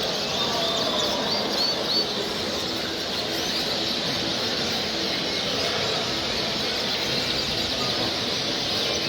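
Many small caged ornamental birds chirping and calling at once, a dense steady chorus of short high chirps.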